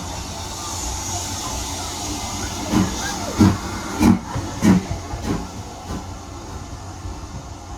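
Steam locomotive hissing steadily. Midway it gives a run of about six loud, evenly spaced beats a little over half a second apart.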